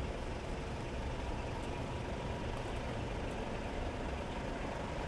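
Steady low rumble of idling heavy truck engines, with no revving or sudden events.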